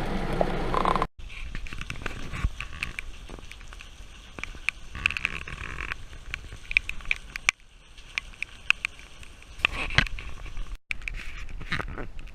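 Rain pattering, with scattered drops striking close by as irregular clicks; the sound cuts off sharply about a second in, near eight seconds and near eleven seconds.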